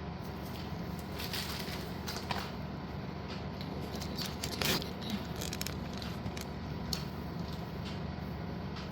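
Packets of slate pieces being handled: scattered light rustles and clicks over a steady background hum, the loudest about halfway through.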